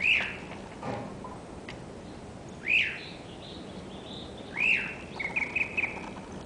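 A bird calling: a sharp arched chirp repeated about every two seconds, then a quick run of short chirps near the end. A faint knock sounds about a second in.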